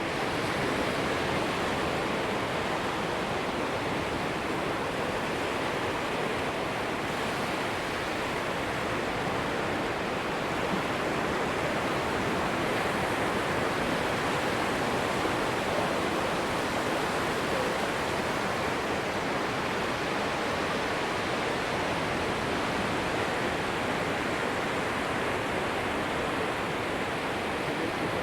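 Atlantic surf washing onto a sandy beach: a steady, even rush of waves with no single crash standing out.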